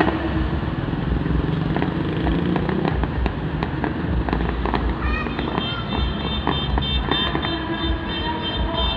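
Fireworks display going off: many sharp bangs and crackles over a continuous low booming rumble. A steady high whistling tone joins about halfway through.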